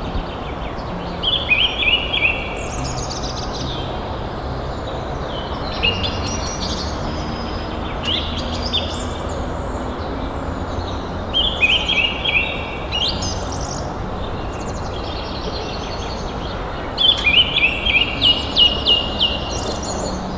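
Songbirds singing in short phrases of rapid chirps every few seconds, the longest run near the end, over a steady background noise.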